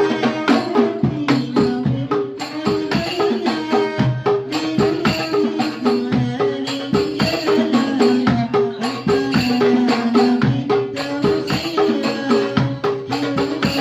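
Banjari ensemble of darbuka and jingled frame drums playing a fast, dense rhythm, with a stepping melody line held over the drumming.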